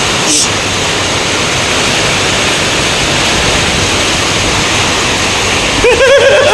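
Heavy storm rain pouring down in a dense, steady hiss.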